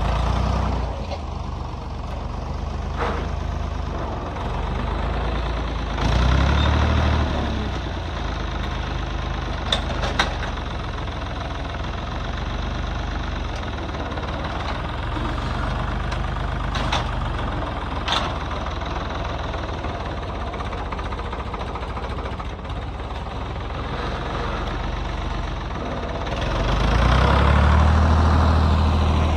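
Vehicle engine running steadily with a low rumble, swelling louder twice, about six seconds in and again near the end, with a few sharp clanks or rattles along the way.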